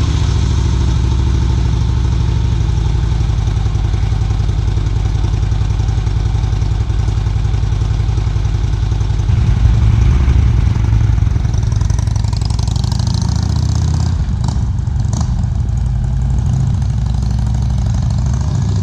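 Harley-Davidson motorcycle's V-twin engine idling steadily just after starting, growing somewhat louder and fuller from about halfway through.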